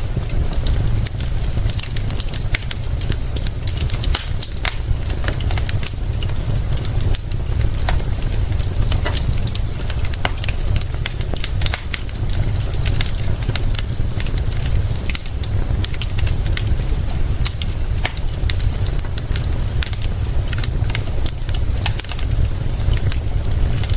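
Wood fire crackling with frequent, irregular sharp pops over a steady hiss of rain and a constant deep low rumble.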